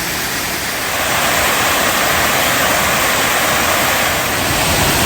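Waterfall crashing steadily, a loud even rush of falling water, growing a little louder about a second in.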